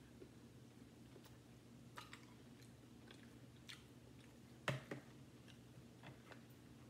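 Quiet close-up chewing of a mouthful of seafood boil (shrimp and potato), with scattered small mouth clicks and smacks. A louder pair of sharp clicks comes about two-thirds of the way through.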